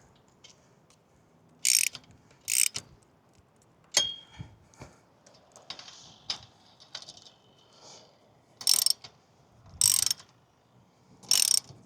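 Ratchet wrench tightening the bolts on an antenna mast mount: five short ratcheting strokes, two early and three near the end, with a sharp metallic clink that rings briefly about four seconds in.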